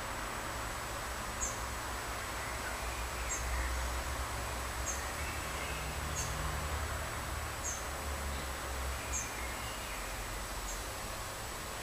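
Outdoor garden ambience: a bird repeats a short, high call about every second and a half, with a few fainter bird notes and a low steady rumble underneath.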